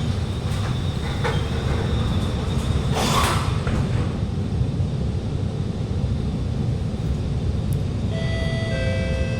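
Interior rumble of an Alstom Movia R151 metro car, with a short hiss about three seconds in. Several steady electric whine tones from the train's traction equipment come in near the end.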